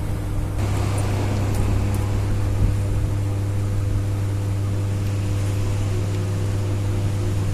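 Steady low machine hum, like a motor or fan running, with a few faint clicks about one to two seconds in.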